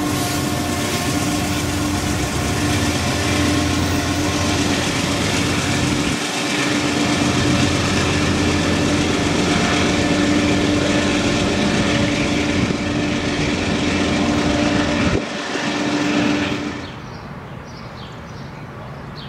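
Norfolk Southern diesel-hauled freight train rolling past: a steady, loud rumble of wheels and cars on the rails, with a steady tone running through it. The noise falls away to a quieter background about 17 seconds in.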